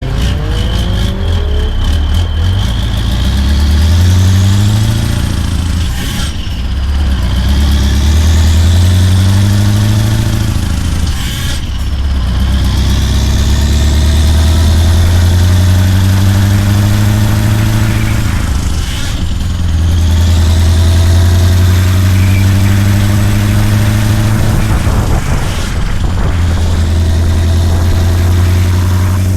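Scania V8 truck engine pulling through the gears. Its note climbs, breaks off briefly at each of four gear changes, and climbs again, with a high whine rising and falling along with it.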